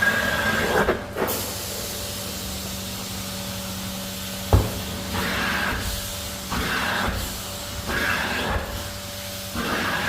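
Carpet extraction cleaner running with a steady motor hum. From about the middle on, its wand makes repeated hissing spray-and-suction passes, about one every second or so. There is a single sharp knock a little before the passes begin.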